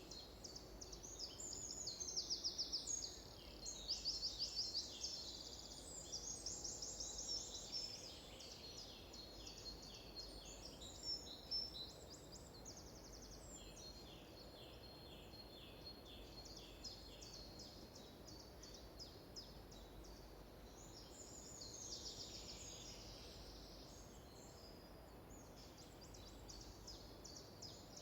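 Several songbirds chirping and trilling over one another. Rapid trills are loudest in the first few seconds and again near the end, over a faint steady background hush.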